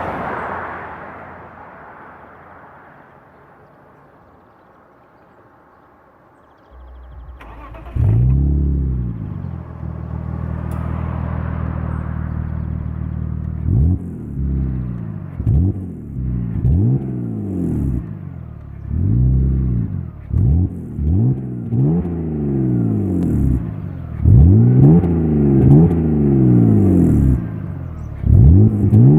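BMW E39 525i's 2.5-litre straight-six through a Magnaflow exhaust, starting up about seven seconds in and settling to a steady idle. From about halfway it is blipped repeatedly, each rev rising and falling quickly, the later blips louder.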